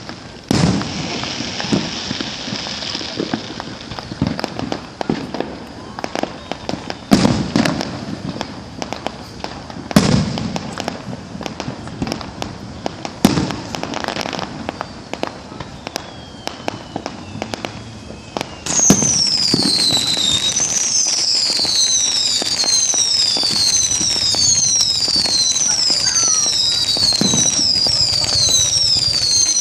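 Aerial fireworks going off: several loud booms with crackling between them. In the last third a loud high whistle starts, falling in pitch over and over, about once a second.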